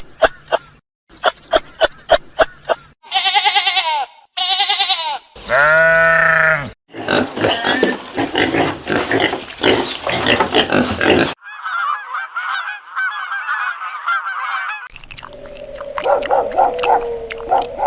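A string of short clips of different animal calls, cut one after another with brief gaps. It opens with rapid pulsed calls, then pitched calls that rise and fall, then a dense noisy stretch, and ends on a long held call.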